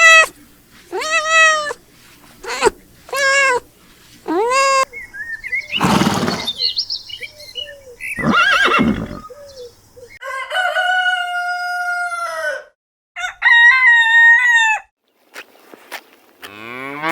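A string of separate farm animal calls, one after another, with a rooster crowing among them. The calls are short and arched in the first few seconds, and two longer held calls come in the second half.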